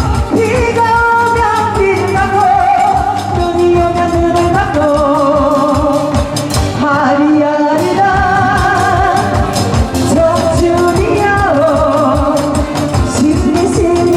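A singer performing a trot song live with vibrato over a backing track with a steady beat.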